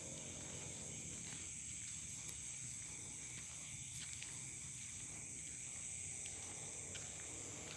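Steady insect chorus of crickets, a constant high-pitched buzz, over a low background rumble, with two faint clicks in the first half.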